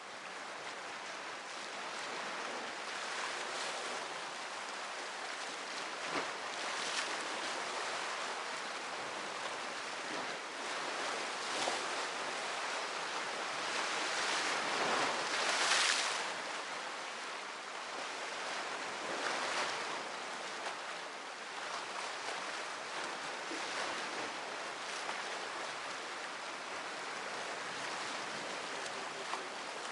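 Sea surf washing onto the shore: a steady rushing that swells and ebbs with each wave, loudest about halfway through.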